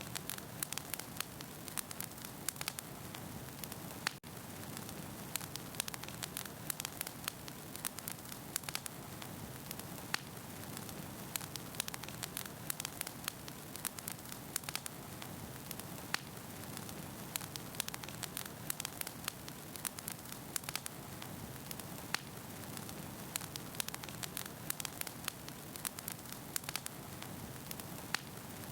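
Wood fire burning in a fireplace: a steady low hiss of flames with frequent, irregular crackles and pops from the burning logs, several a second.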